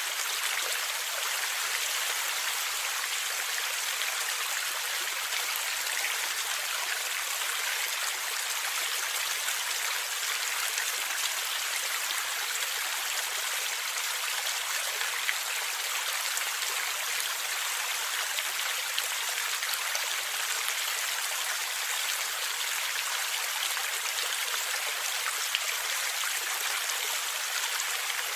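Small stream of water running and gurgling steadily, a continuous hiss of splashing with fine drips and ticks and little low rumble.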